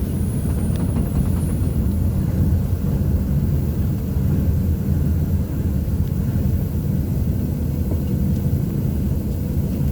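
City bus engine running, heard from inside the passenger cabin as a steady low drone.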